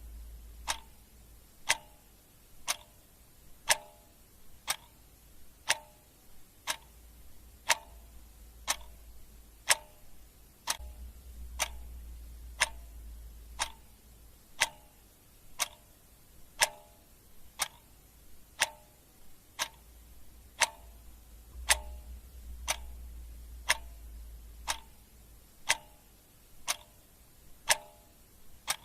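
Clock ticking steadily, about two ticks a second, alternating a stronger and a weaker tick in a tick-tock rhythm.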